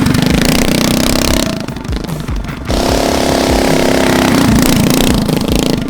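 Harbor Freight Predator Ghost 212cc single-cylinder four-stroke engine on a mini trike, running hard under throttle. It backs off about one and a half seconds in, then opens up again about a second later.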